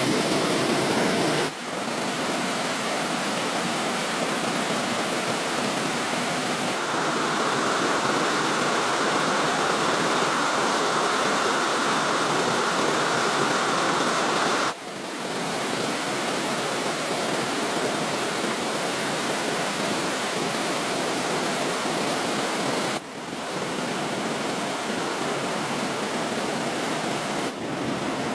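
Steady rushing of water, an even noise with no distinct events. It breaks off and changes character abruptly three or four times, at edit cuts.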